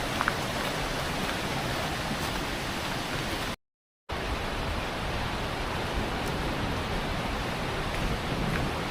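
Steady rushing of a waterfall, an even hiss with no pauses in the flow, cut by a half-second dropout to silence about midway.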